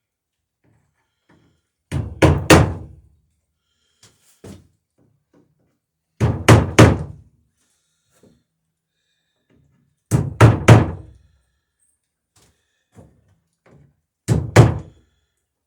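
Hammer driving nails through the lapped sheer-strake planking of a wooden dory, to be riveted: four rounds of about three quick blows each, roughly every four seconds, with light taps between.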